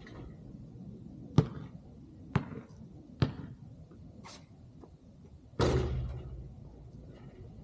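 Basketball bouncing on an outdoor court, three sharp bounces about a second apart. Some two seconds later comes a louder, longer impact that rings and fades.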